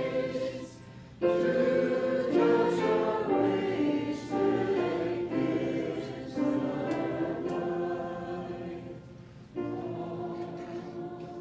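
A group of voices singing a hymn together in slow, sustained phrases, with a brief break about a second in and a new held chord near the end.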